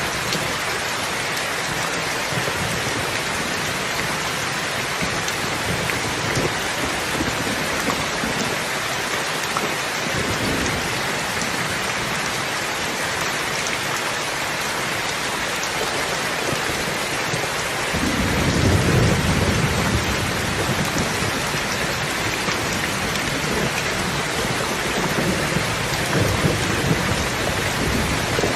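Steady rain falling. About two-thirds of the way through, a low rumble of thunder comes in suddenly and rolls on, swelling again near the end.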